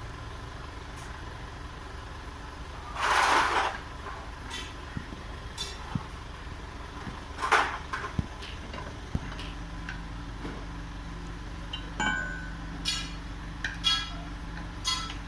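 Steady low hum of a running vehicle engine that grows stronger about nine seconds in, with two short hisses and several light metallic clinks and taps in the last third.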